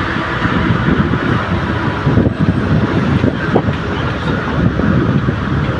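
Motor vehicle on the move: steady engine and road noise.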